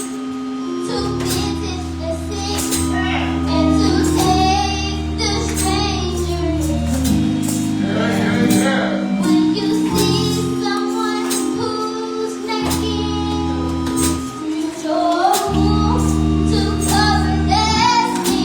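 Church music: singers with held keyboard chords that change every second or two, and light percussion hits.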